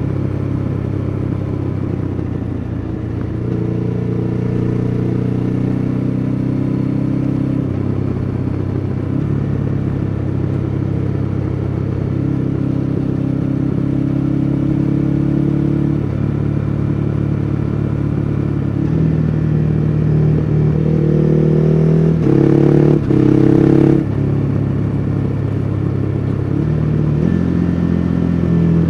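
Ducati Hyperstrada's 821 cc V-twin engine running under way, its pitch stepping up and down several times with throttle and gear changes. About three-quarters of the way through it pulls harder, climbing in pitch and louder for a couple of seconds with a brief break, then drops back.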